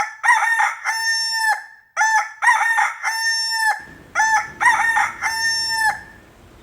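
Rooster crowing three times, each cock-a-doodle-doo lasting under two seconds with short gaps between.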